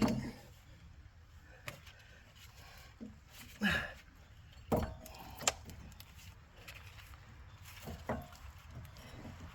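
About half a dozen scattered knocks and clunks of tools and parts being handled during work on a truck's front suspension, with the loudest pair a little past the middle.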